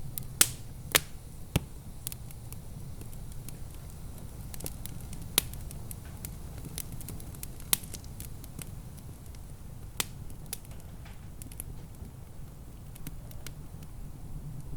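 Wood fire in a fireplace crackling, with irregular sharp pops over a steady low rumble of the flames. The loudest pops come in a cluster in the first two seconds and singly about five, seven and a half and ten seconds in.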